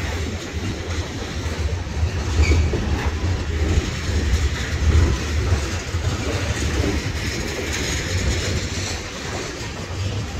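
Norfolk Southern freight train of tank cars rolling steadily past close by, steel wheels running over the rails, with wind buffeting the microphone.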